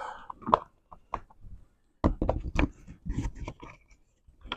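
A run of sharp clicks, knocks and rattles as the window regulator and motor assembly is handled and fitted into a Smart car door, busiest around the middle.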